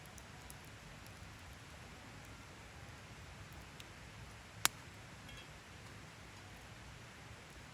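Wood fire burning in a Picogrill fire pit: a faint steady hiss with a few light ticks and one sharp crackling pop about four and a half seconds in.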